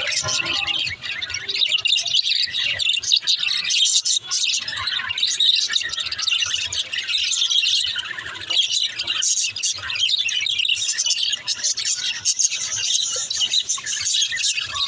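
Pet budgerigars chattering: a dense, continuous stream of quick, high chirps and warbles from several birds at once.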